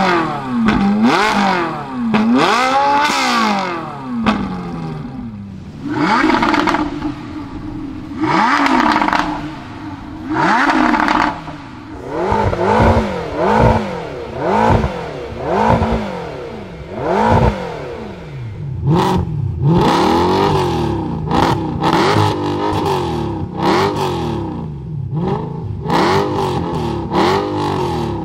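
Parked supercars' V8 engines revved in turn, including a Ferrari 458 Italia with a Capristo exhaust and a McLaren 650S Spider: a long run of quick throttle blips, the pitch rising and falling each time, with a few longer held revs and short pauses between.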